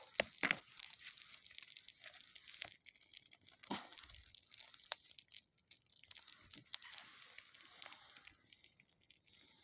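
Dry birch bark being torn off by hand: faint, irregular crackling and tearing, with a few sharper cracks near the start.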